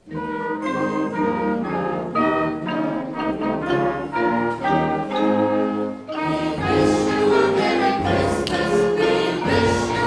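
High school concert band and choir performing together, brass and voices entering at once; the sound grows fuller and louder about six seconds in.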